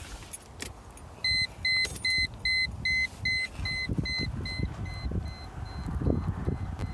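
A rapid electronic beeping, about two and a half beeps a second, starting about a second in, loud at first and then fading to a softer repeat. Low rumbling noise runs underneath.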